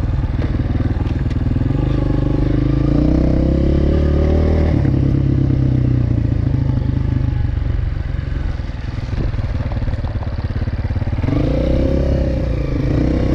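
Single-cylinder four-stroke dirt bike engine under hard load climbing a soft sand hill. The revs climb over the first few seconds, drop sharply about five seconds in, then hold and rise again near the end.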